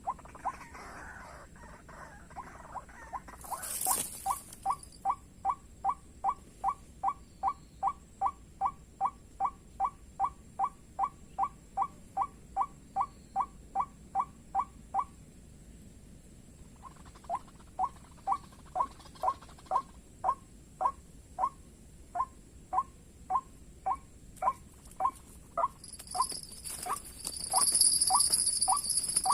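White-breasted waterhen (ruak-ruak) calls: a long, even series of short squeaky notes, about three a second, that breaks off for a couple of seconds midway and then resumes. Near the end a high steady buzz joins in.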